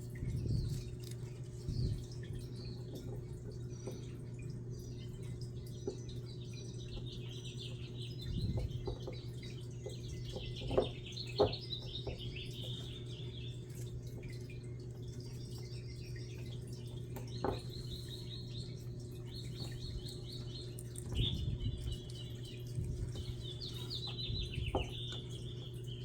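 Small birds chirping and twittering in short repeated trills, over a steady low hum, with a few soft knocks.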